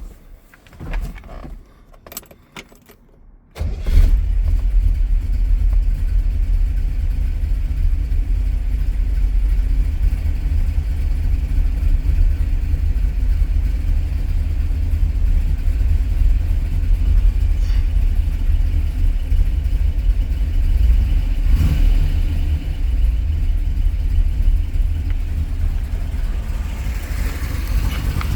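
A 1964 Corvette Sting Ray's 327 small-block V8 on a cold start: a few clicks and rattles, then the engine catches suddenly about three and a half seconds in and settles into a steady, deep idle.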